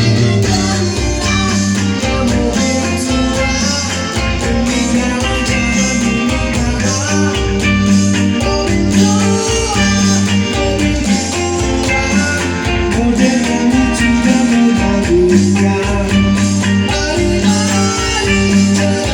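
A band playing pop-rock live, with guitar to the fore over a steady, repeating bass line and drums.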